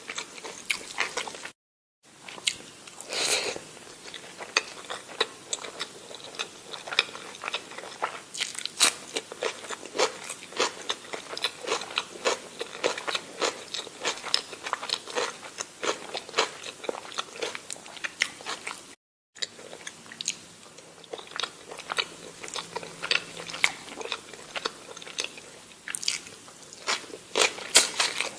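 A person chewing and biting food close to the microphone, mukbang-style, with many sharp crunching, smacking clicks. The sound cuts out abruptly for a moment twice.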